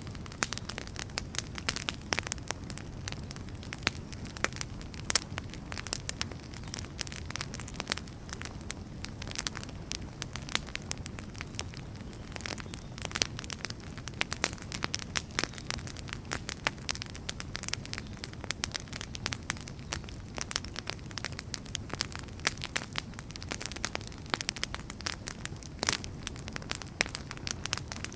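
Wood fire burning, with many irregular sharp crackles and pops over a steady low rumble of the flames.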